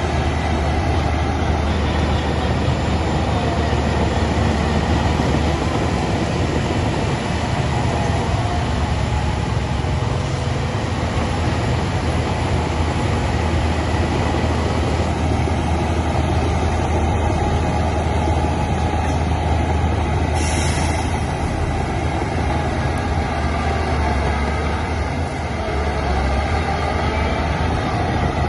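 Heavy diesel earthmoving machinery running steadily under load, with a deep engine drone and mechanical rumble. A brief high hiss or squeal comes about 20 seconds in.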